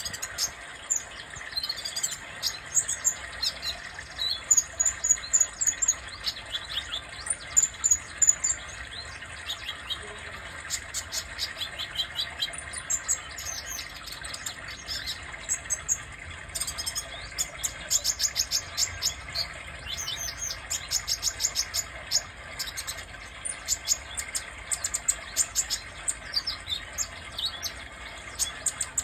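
Sunbird (kolibri dada merah) singing in rapid, high-pitched twittering trills, phrase after phrase with short gaps.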